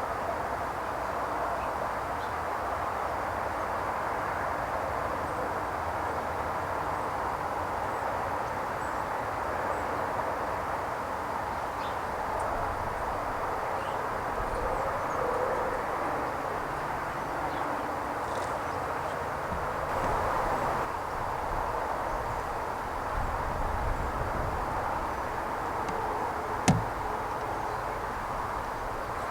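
Steady outdoor background noise, an even rushing hiss with a low rumble, broken near the end by one sharp click.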